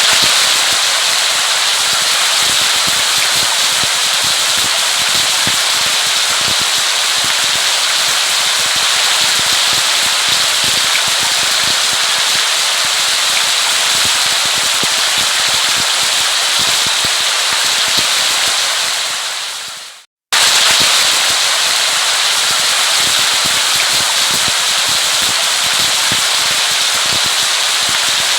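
Steady heavy rain, a dense crackling patter of drops. The sound cuts out for a moment about twenty seconds in, then resumes.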